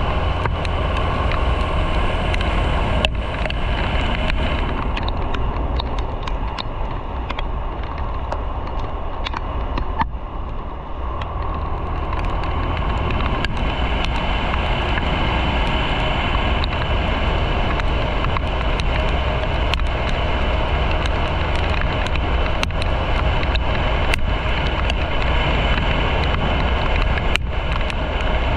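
Motorcycle riding at road speed: engine running under steady wind and road noise on the microphone, easing off briefly about ten seconds in.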